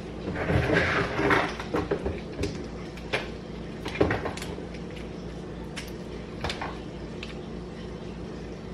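Kitchen handling noises while preparing matcha: a brief rushing sound in the first second and a half, then a series of light clicks and knocks of containers and utensils, the loudest about four seconds in, over a steady low hum.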